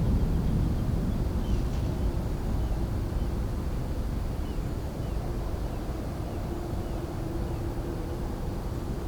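Low rumble of a jet airliner's engines at an airport, slowly fading, with a faint steady whine in the second half.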